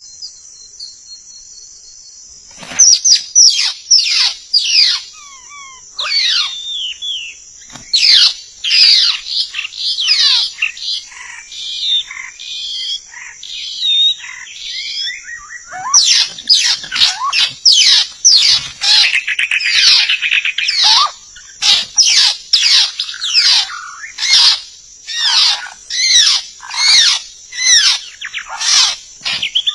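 White-rumped shama (murai batu) singing: bursts of rapid, varied whistles and sweeping notes, starting about three seconds in and coming thicker in the second half, over a steady high buzz.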